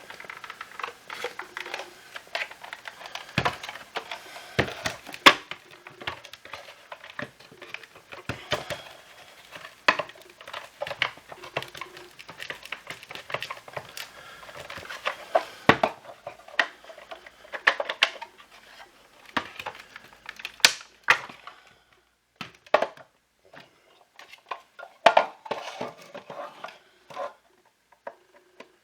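Hard plastic parts of a cordless vacuum cleaner being handled and taken apart: irregular clicks, knocks and scraping, busiest in the first two thirds and sparser near the end.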